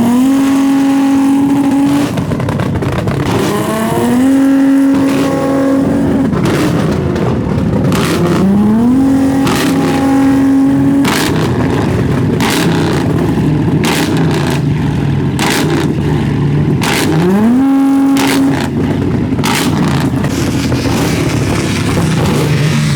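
A modified car engine revved hard again and again: four times the revs climb quickly and are held high and steady for one to two seconds before dropping. Sharp cracks come between the revs, and a lower steady engine note runs later.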